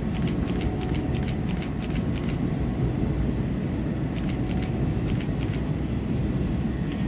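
A train moving through the station: a steady low rumble of wheels on rails, with two runs of quick light metallic ticks, about five a second.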